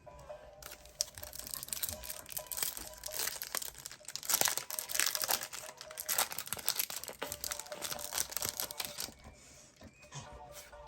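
Foil Pokémon booster pack wrapper crinkling and tearing as it is opened: a dense run of crackles that dies down near the end.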